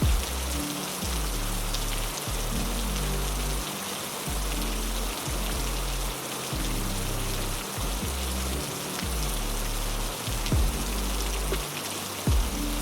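Heavy rain falling in a steady, even hiss, with soft sustained low music notes that shift in steps underneath. A few short low thumps stand out, near the end.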